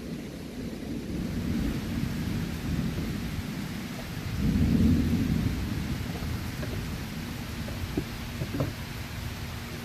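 Thunder rumbling and rolling, swelling to its loudest about halfway through, over the steady hiss of rain.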